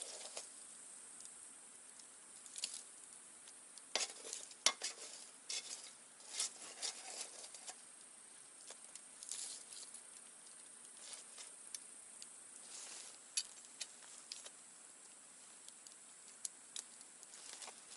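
Wood campfire crackling, with irregular snaps and pops that come thickest a few seconds in, over a steady high hiss.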